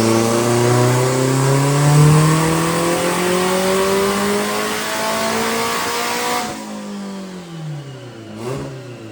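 Race car engine at full throttle under load, revs climbing steadily through a pull. About six and a half seconds in the throttle closes, the sound drops sharply and the revs fall away.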